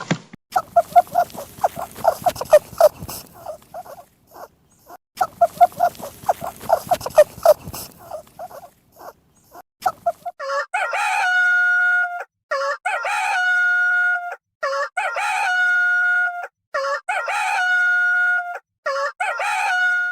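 Chicken calls: two bouts of rapid clucking, then a rooster crowing four times, each crow ending on a long held note.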